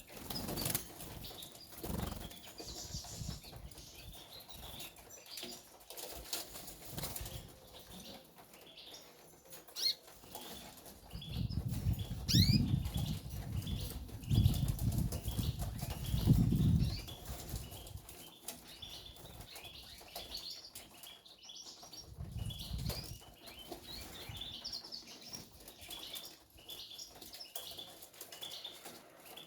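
Caged canaries fluttering their wings, with short high chirps throughout. A louder stretch of low rumbling thumps comes in the middle, and a shorter one later.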